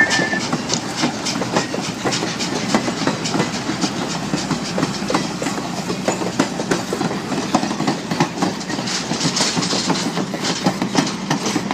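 Passenger cars of a steam-hauled train rolling past, their wheels clicking and clattering over the rail joints in a steady run of sharp ticks.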